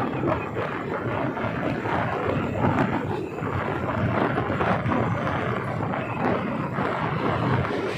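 Suburban local train running: a steady rumble and rattle.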